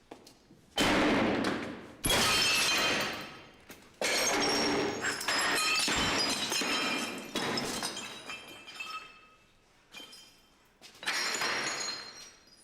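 A series of about five sudden loud crashes, each trailing off with ringing, clattering debris; the longest, about four seconds in, goes on for three seconds or more.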